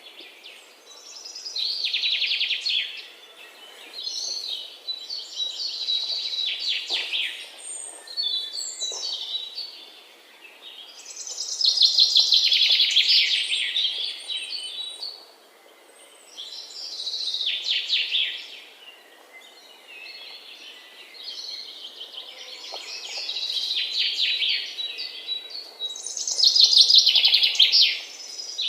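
A songbird singing: about eight loud phrases of rapid, buzzy trills, each one to three seconds long, repeated a few seconds apart.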